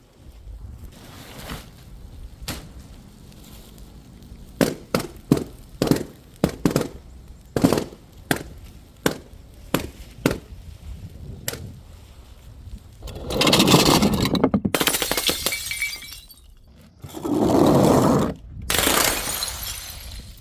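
Glass bottles knocking and clinking in a string of sharp separate hits, then two long loud stretches of glass shattering and crashing, the first about two-thirds of the way through and the second near the end.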